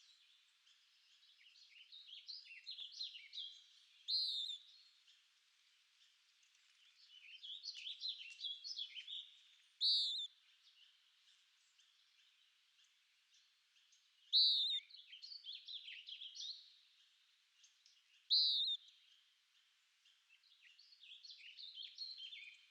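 A songbird singing: phrases of quick twittering notes come every five or six seconds, with a loud, short, clear note four times.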